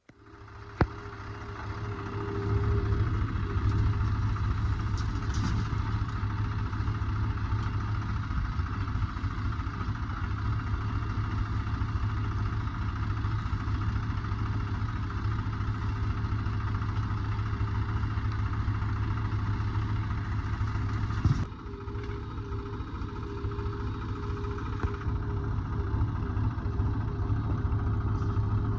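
A diesel engine of heavy machinery running steadily with a low drone and a steady whine above it, swelling up over the first few seconds. A sharp knock comes about 21 seconds in.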